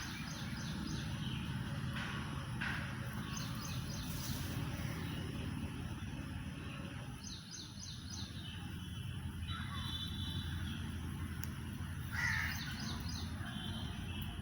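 Birds calling outdoors: several short runs of quick high notes and some harsher caws, over a steady low background rumble.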